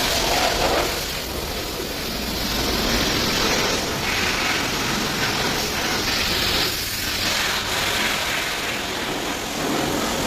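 A hose jet of hot water spraying over a car's engine bay: a steady hissing spray that swells and eases.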